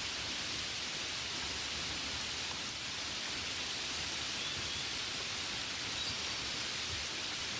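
Gentle rain falling on a window: a steady, even hiss with no single drops standing out.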